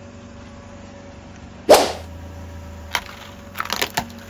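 A car tyre crushing something brittle: one loud sharp crack a little under two seconds in, then a few smaller crackles. A low steady engine hum runs underneath.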